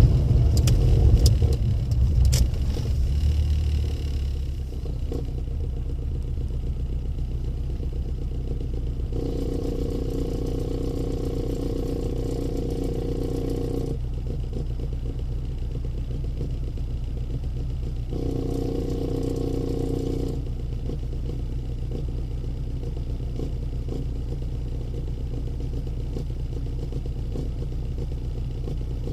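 Rover Mini's A-series four-cylinder engine with a Rookie aftermarket muffler, its sound dying down over the first few seconds and then idling steadily with a low, even hum. A mid-pitched humming tone comes in over it twice, once for about five seconds and once for about two.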